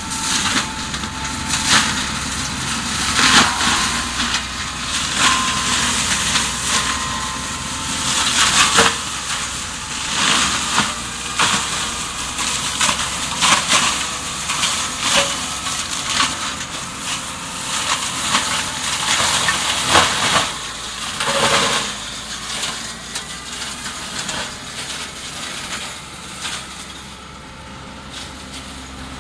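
Promagri PMA 2FRR tractor-mounted shredder running at work, its rotor chewing through material with frequent sharp cracks and knocks over a steady, noisy drone from the machine and tractor. The knocks thin out and it quietens over the last few seconds.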